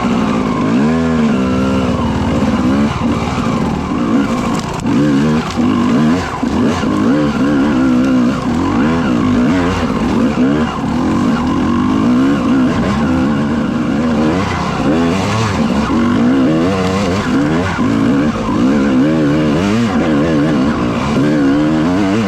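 Motocross dirt bike engine revving hard on a hill climb, its pitch rising and falling over and over as the throttle is worked through the gears.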